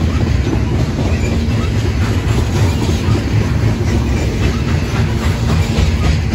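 Freight train of tall open-top cars rolling past: a steady rumble of steel wheels on rail, with the clickety-clack of wheels crossing rail joints.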